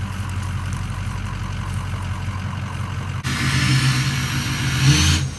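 Diesel pickup truck engine idling steadily; about three seconds in the sound cuts abruptly to a louder running diesel with a strong hiss, which grows louder near the end.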